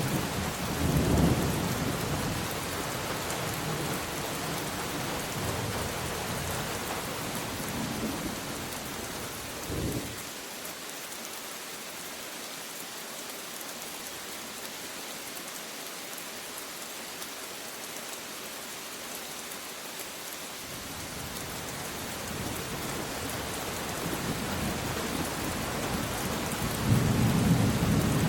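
Steady rain with rolling thunder. Low rumbles at the start fade out, leaving about ten seconds of rain alone, and then the thunder builds again and is loudest near the end.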